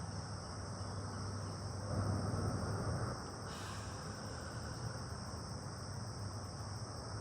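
Steady, high-pitched chorus of insects, with a low hum beneath it and a brief soft rush about halfway through.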